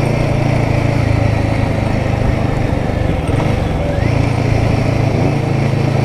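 Royal Enfield Guerrilla 450's single-cylinder engine running steadily while riding. The revs dip briefly and pick up again about three and a half seconds in.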